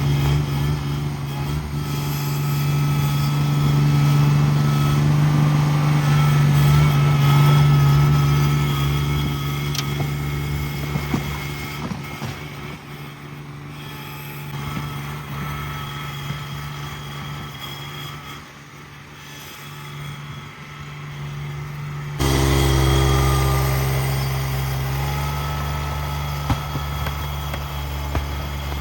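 Cub Cadet 1782 garden tractor's engine running steadily with a low, even hum. It grows louder and fades as the tractor moves, with a sudden jump in loudness about two-thirds of the way through.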